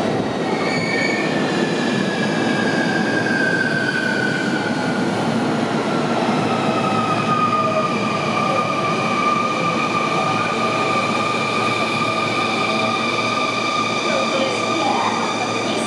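Sotetsu 21000 series electric train braking into a station and drawing to a stop, with the running noise of its wheels on the rails. A high whine falls in pitch over the first several seconds as it slows, then holds steady and cuts off right at the end.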